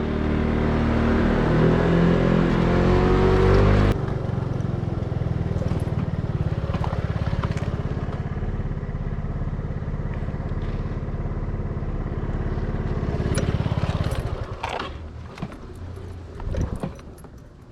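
Vehicle engine accelerating, its pitch rising for about four seconds, then dropping abruptly and running steadily. Near the end the engine sound dies down and a few clicks and knocks follow.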